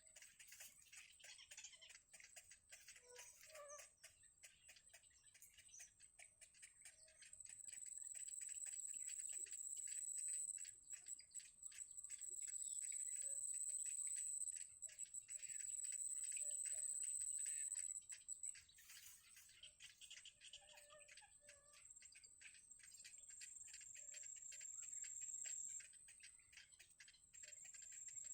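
Faint bird chirps over a steady high-pitched whine and fast, continuous ticking.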